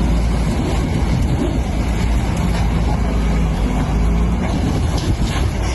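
A train running past: a loud, steady rumble with a few sharp clicks near the end.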